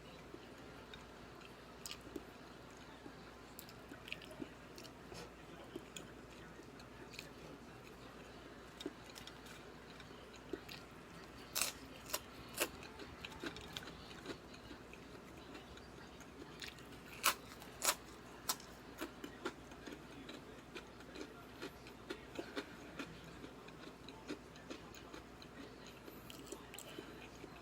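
A person chewing and eating with the mouth close to the microphone. Scattered short, sharp clicks and smacks run throughout, the loudest in two clusters: about twelve seconds in and about seventeen seconds in.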